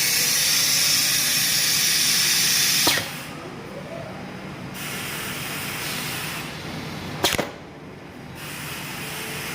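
Refrigerator door gasket welding machine running with a steady hiss that drops away with a click about three seconds in. A softer hiss goes on, broken by a sharp double clack about seven seconds in.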